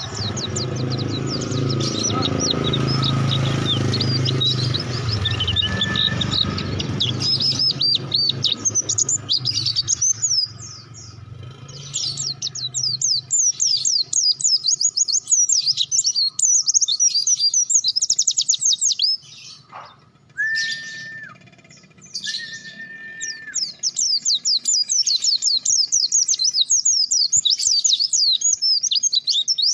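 White-eye (pleci) singing a fast, chattering song of rapid high chirps in long runs, with short breaks near the middle. A low steady engine hum lies underneath in the first half, and two short steady whistled notes sound during the break.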